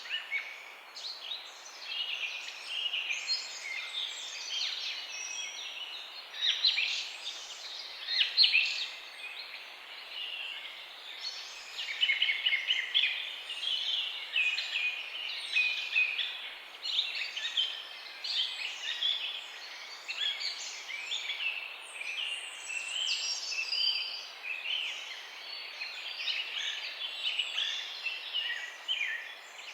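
Many songbirds chirping and trilling together in a continuous, overlapping chorus of short high calls over a faint background hiss.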